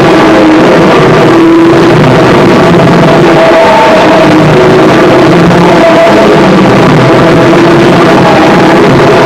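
Harsh noise music: a dense, unbroken wall of noise at a constant, near-maximum level, with short wavering tones drifting through it.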